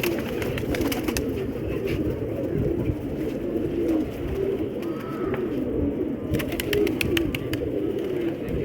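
Many domestic pigeons cooing together, a dense overlapping chorus of low wavering coos with no break. About six seconds in comes a quick run of sharp clicks.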